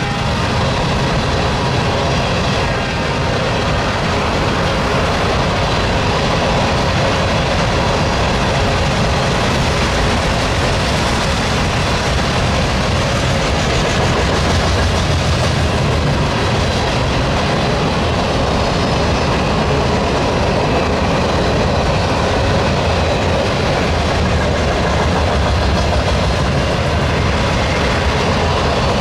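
Freight train's railcars rolling past, a steady, loud clatter of wheels on rail.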